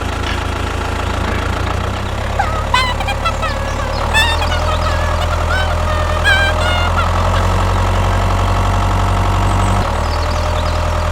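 Mini tractor engine running steadily at idle, stepping up slightly about four seconds in and dropping back near the end, with several short high chirps over it in the middle.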